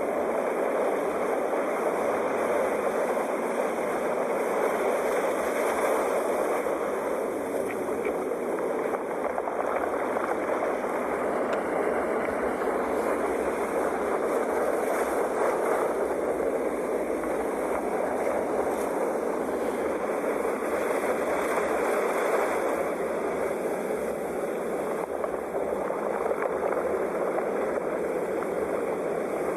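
Ocean waves washing continuously, a steady rushing with slow, gentle swells and ebbs in level.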